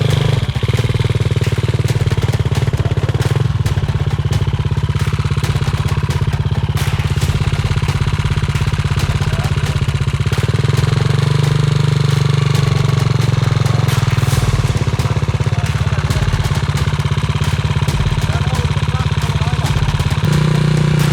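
Enduro dirt bike's single-cylinder four-stroke engine running close by, holding a steady low idle.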